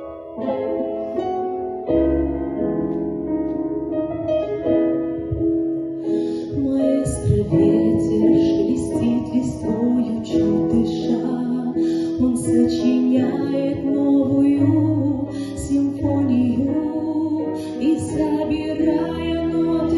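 A song with piano accompaniment: the piano plays alone at first, then a female voice comes in singing about six seconds in, with a low bass line joining in later.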